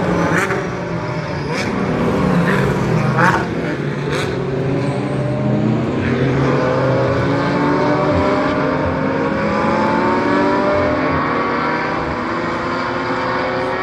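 GT race car engines at a circuit. Several sharp cracks come in the first few seconds, then from about six seconds in an engine's pitch climbs steadily as a car accelerates.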